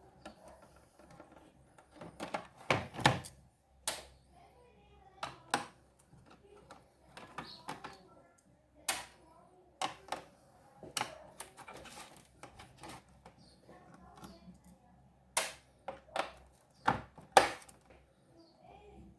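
A screwdriver backing out the four small screws that hold a microwave's control board, with irregular clicks and taps of metal and plastic as the tool works and the screws are handled.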